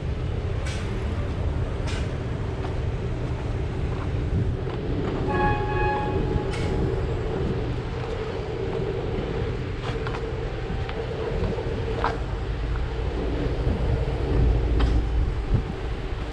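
Steady low rumble of a running engine, with a short pulsed horn-like toot about five seconds in and a few scattered clicks. Wind buffets the microphone near the end.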